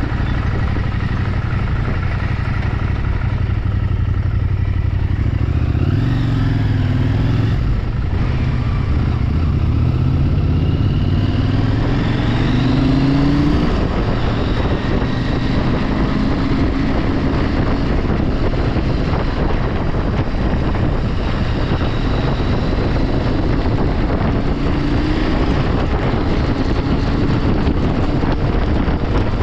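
A vehicle engine heard on board while driving, over steady wind and road noise. From about six to thirteen seconds in it accelerates through several gears, its pitch rising in steps, then settles into a steady cruise.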